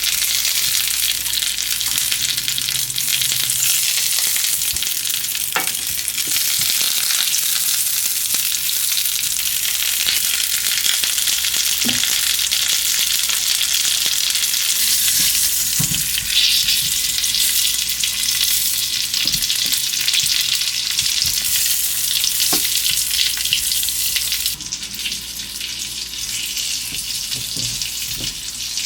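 Food sizzling in hot oil in a pan: a steady, loud crackling hiss with a few sharp clicks of a utensil. The sizzle eases a few seconds before the end.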